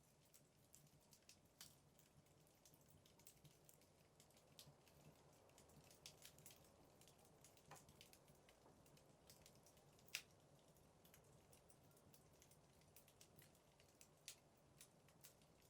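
Burning firewood crackling faintly in a fireplace: scattered small pops and snaps, the sharpest about ten seconds in, over a faint steady low hum.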